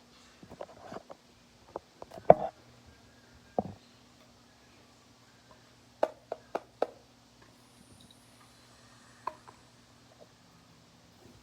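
Packaging being handled while a Google mesh Wi-Fi unit is unboxed: scattered knocks, taps and rustles of box and contents, the loudest a little over two seconds in, over a faint steady low hum.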